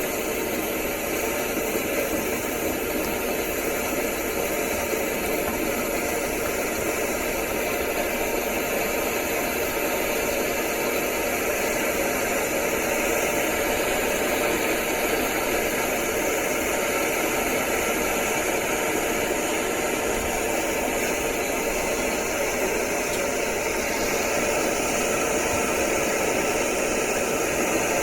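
Furnace burner, fed through a 6 mm flared copper nozzle tube, burning steadily with an even rushing noise of flame and air. The noise holds level without surges or pops, a sign of the stable flame with no flame leakage that the nozzle is meant to give.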